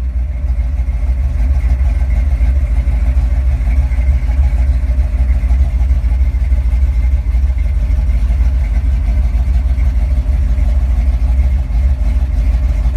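1965 Ford Mustang engine idling steadily, still warming up after a cold start.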